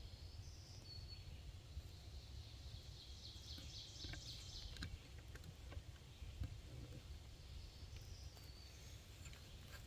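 Faint songbirds singing: a short high phrase near the start, repeated near the end, and a fast high trill in the middle. A steady low rumble of wind or distant traffic lies underneath.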